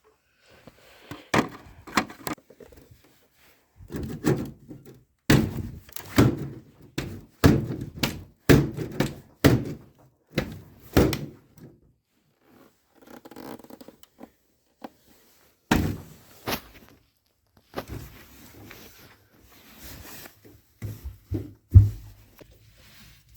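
Irregular knocks and thuds, with a dense run of them in the middle and a sharp knock near the end. No motor is running.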